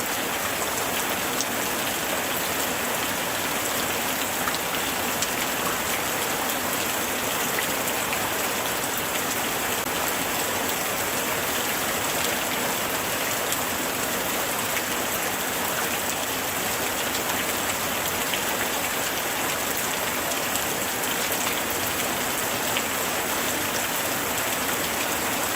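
Light rain falling steadily, a dense even hiss with many small drop ticks.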